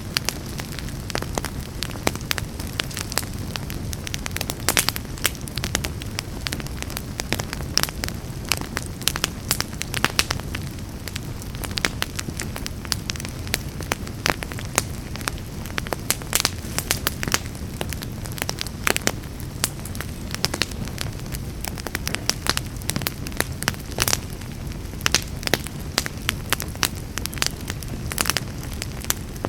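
Wood fire burning in a fireplace, with a steady low rumble of flame and frequent sharp crackles and pops.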